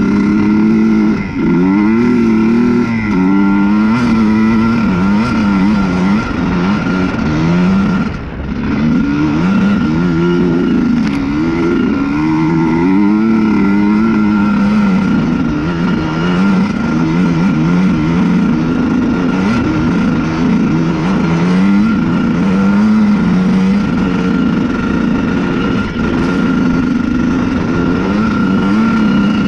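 Honda CR125 single-cylinder two-stroke dirt bike engine being ridden hard, its pitch rising and falling again and again as the throttle is worked, with brief lifts off the throttle about a second in and about eight seconds in.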